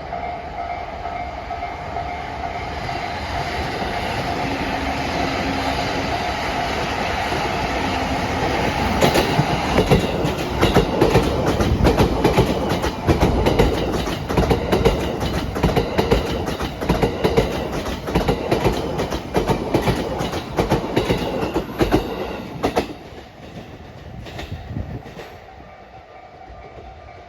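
A level-crossing warning bell ringing as a steady tone while a JR East E233-series electric train approaches and passes. From about 9 seconds in, a long run of rapid wheel clicks over the rail joints is the loudest sound. The clicks stop about 23 seconds in, leaving the bell fainter.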